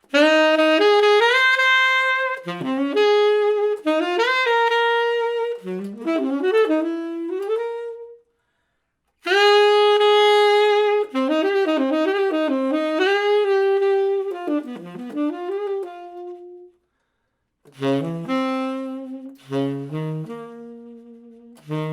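Unaccompanied saxophone playing a slow jazz ballad melody in long held notes and short runs. Two brief pauses split it into three phrases, and the last phrase moves into lower notes.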